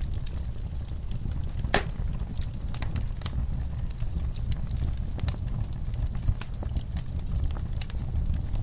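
Wood fire burning in a fireplace: a steady low rumble of flames with irregular crackles and pops, one sharper pop a little under two seconds in.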